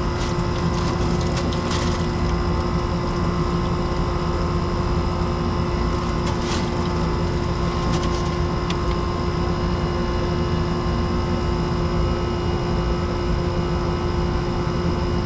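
Steady drone of running machinery with a constant hum. A few light crackles and clicks come in the first couple of seconds and again about six seconds in.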